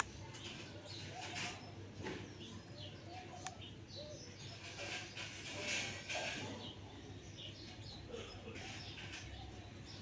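Birds calling softly in short, scattered chirps and calls, with a sharp click about three and a half seconds in.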